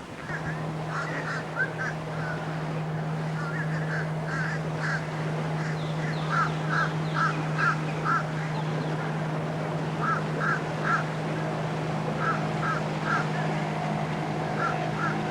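Birds calling: short honking calls in quick runs of three to five, repeated every second or two, over a steady low hum.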